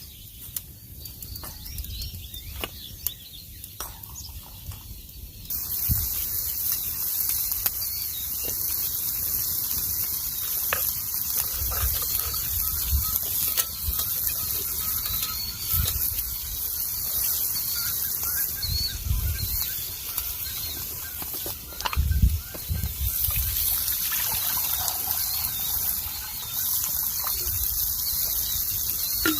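Small birds chirping over a steady rushing hiss that comes in suddenly about five seconds in, with a few low thumps.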